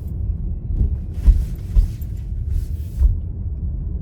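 Steady low rumble of a car driving, heard from inside the cabin, with two brief hissing stretches partway through.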